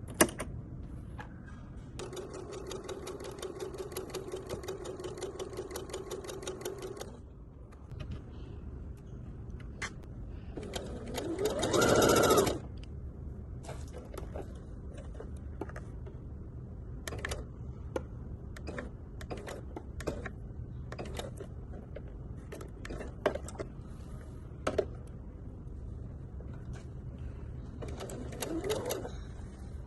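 PFAFF Passport sewing machine stitching in separate runs: an even run of about five seconds near the start, a shorter, louder burst midway whose motor speeds up and slows down, and a brief run near the end. Scattered clicks sound between the runs.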